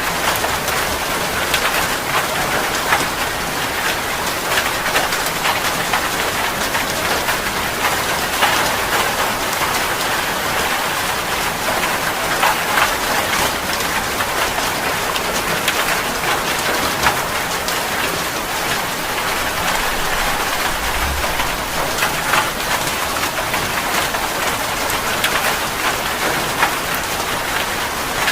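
Steady heavy rain falling, a dense even hiss with many separate drop impacts standing out through it.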